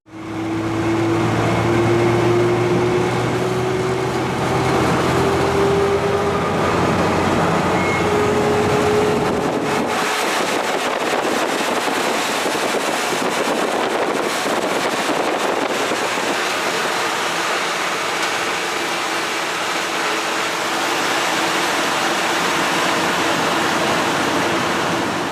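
Old GMC truck engine running, one tone in it slowly rising in pitch. About ten seconds in the engine sound drops away under a steady rushing noise.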